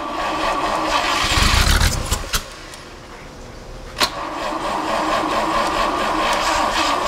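Studebaker Champion flathead six turned over by its starter on a first start attempt with the choke on, just after the distributor was reinstalled and the timing set only roughly. It cranks for about two seconds, falls quiet after a click, then cranks again with a sharp click about four seconds in and keeps going steadily.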